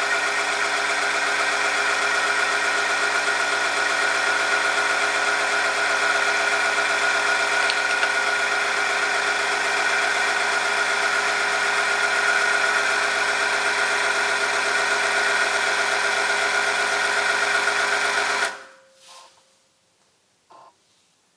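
Oil-film tester's electric motor and rotating shaft running steadily against a loaded, oil-lubricated metal sample, a whine with several steady tones. It stops abruptly about 18 seconds in, as the machine is stopped by the load.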